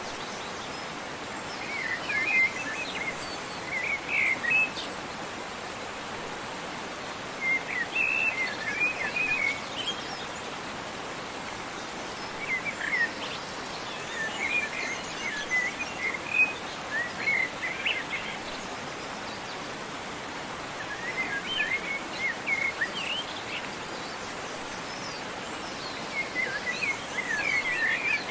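Small songbirds chirping in short twittering bursts every few seconds, over a steady rush of falling water from a waterfall.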